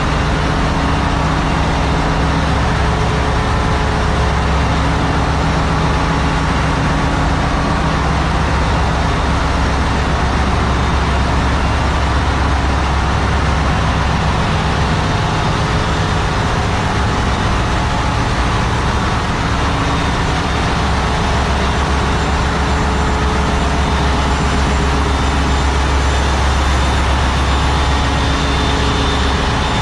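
Ship's engine-room machinery running: a loud, steady din with a deep hum and several steady tones over a wide hiss.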